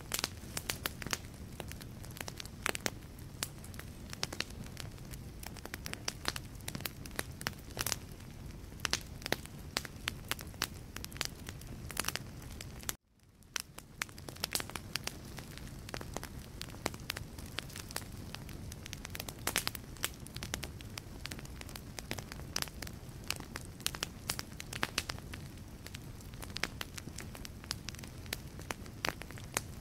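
Logs burning in a fireplace, crackling with frequent sharp pops over a steady low rush of flame. About thirteen seconds in, the sound cuts out for a moment and then fades back in.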